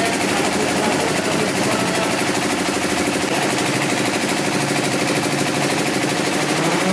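Drag-race car engine idling steadily at an even pitch.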